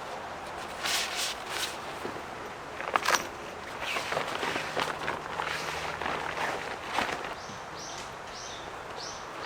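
Scuffing steps and knocks of someone moving about and handling things, then a bird calling near the end in a quick series of about five short, high chirps.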